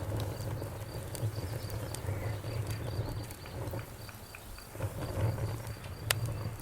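Wood fire crackling: a low rumble from the flames with scattered sharp pops, the loudest pop about six seconds in.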